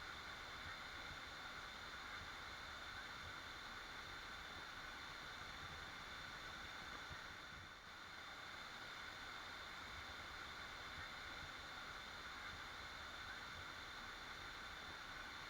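Waterfall rushing steadily, an even wash of falling water with a brief slight dip about eight seconds in.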